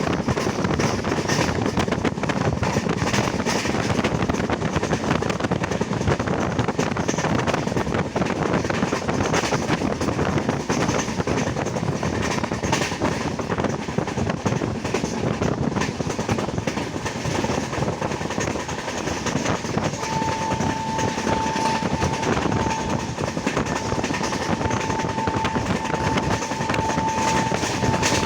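Passenger train running steadily, the wheels and coaches rumbling on the rails, heard from on board. In the last eight seconds a thin, steady high tone sounds over the running noise.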